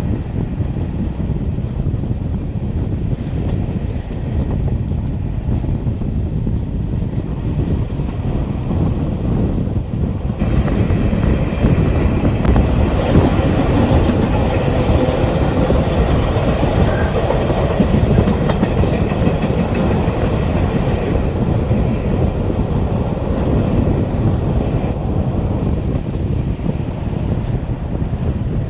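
Matterhorn Gotthard Bahn metre-gauge passenger train running, a steady rumble and clatter of wheels on rail with wind noise. From about ten seconds in the sound turns brighter and a little louder, easing back again around twenty-five seconds.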